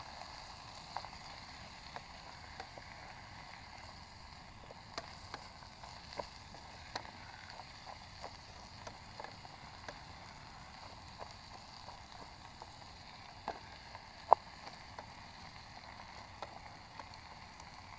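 Onion-tomato masala sizzling in ghee in a pan on a gas stove: a steady low sizzle with scattered small pops and crackles, one sharper pop a little after the middle.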